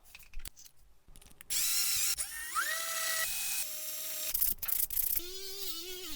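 A small handheld electric power tool spins up with a rising whine that levels off, and the pitch later wavers and dips as the tool works against the part. A few clicks come before it.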